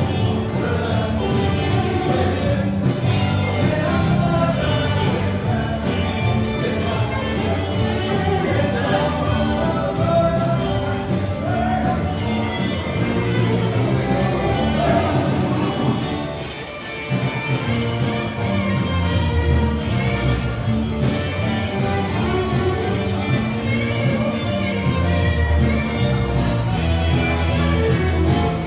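Live band music with a steady beat marked by regular cymbal strokes, with singing over it; the music thins briefly about two-thirds of the way through.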